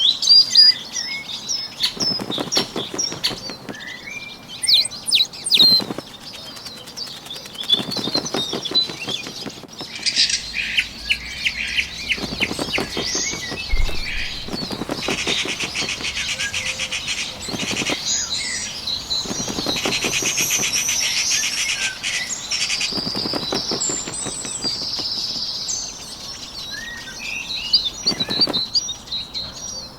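Bird sound effects: repeated bursts of rapid wing flapping every few seconds, with small birds chirping and trilling high over them.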